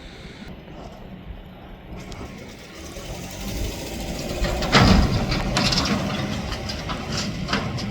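Mack McNeilus front-loader garbage truck's engine running and building in loudness, with a loud metal clank about five seconds in and a few sharper knocks near the end.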